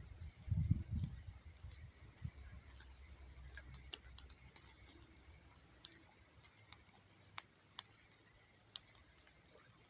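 Wood campfire crackling: scattered, irregular sharp pops and ticks. A low rumble fades away over the first second or two.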